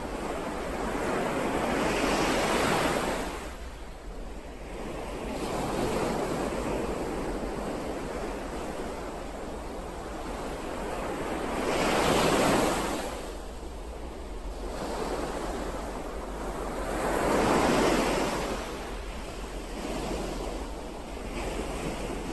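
Ocean waves breaking and washing ashore, a steady rush that swells and ebbs every few seconds, with three larger waves the loudest.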